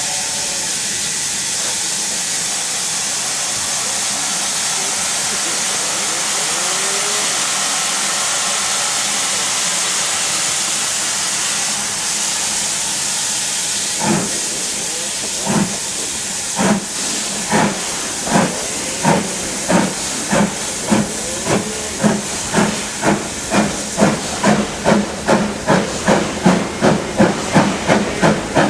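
Steam locomotive standing with a steady hiss of escaping steam, then starting away about halfway through: its exhaust chuffs begin slow and spaced, and quicken to about two or three a second as it gathers speed.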